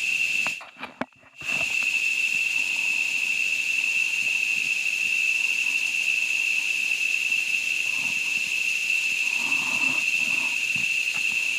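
A loud, steady insect chorus droning on one high pitch, which drops out briefly about a second in.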